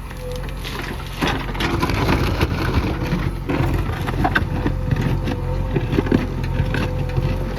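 JCB 3DX backhoe loader's diesel engine running steadily under load. From about a second in there is irregular crunching and scraping of soil and stones as the bucket digs.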